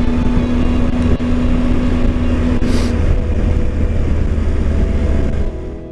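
Triumph Tiger 800 motorcycle's three-cylinder engine running at a steady speed under wind and road noise. It drops away sharply near the end.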